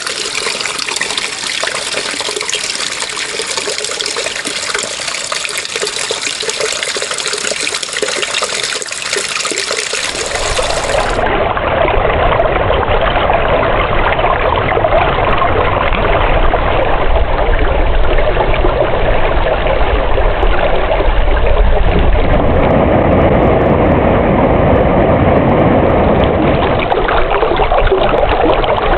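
Running water, a steady trickling flow. About ten seconds in it changes suddenly to louder, deeper rushing water.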